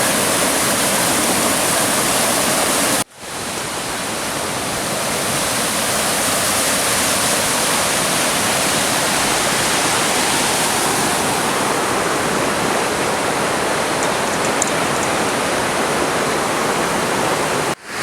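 A stream's water rushing steadily. It breaks off for an instant about three seconds in and comes back.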